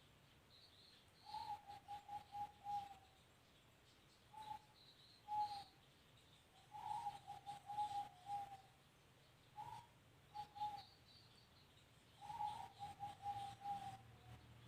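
A bird calling over and over: three runs of quick notes on one pitch, each about a second and a half long, with short single calls between them.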